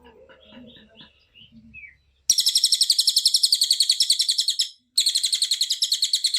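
Cililin songbird singing: a few faint chirps, then two long, loud, rapid rattling trills of about ten notes a second, high in pitch, with a short break between them.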